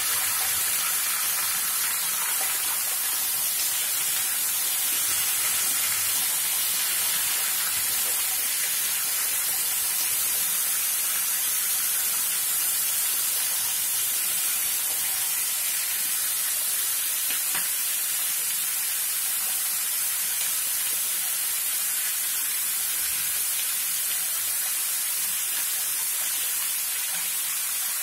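Diced potatoes frying in hot oil in a steel wok: a steady sizzling hiss.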